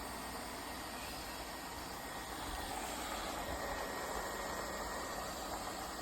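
Lefant M210 Pro robot vacuum running: a steady whirring hiss with a faint constant high whine, swelling slightly in the middle.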